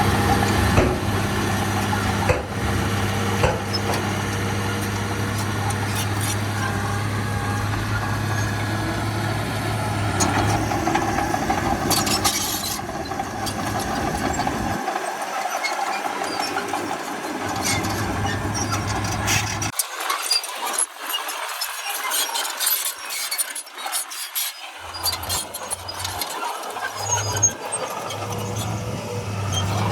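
Heavy diesel earthmoving machinery running steadily. In the second half the engine hum fades in and out, and many sharp clicks and knocks sound among it.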